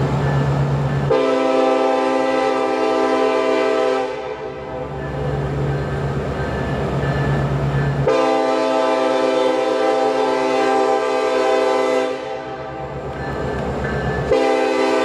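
Sound of an Amtrak Dash 8 diesel locomotive from a model train: the horn chord is sounded in a long blast about a second in, another about 8 seconds in, and a third starting near the end, over a steady low diesel engine rumble.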